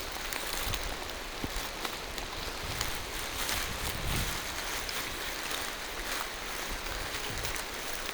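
Steady rain falling through forest trees: a continuous hiss with scattered drops ticking.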